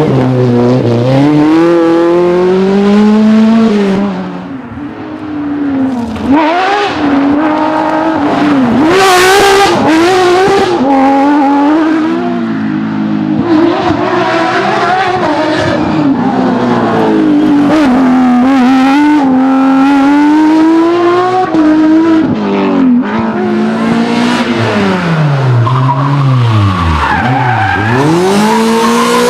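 Rally car engines revving hard, the pitch climbing and dropping again and again through gear changes and lifts, with tyres skidding. Several cars go by one after another.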